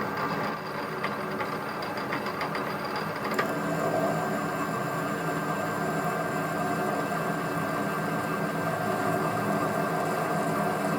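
Workshop machine running steadily with a constant hum and whine. About three and a half seconds in there is a sharp click, after which a further tone joins and the running gets slightly louder.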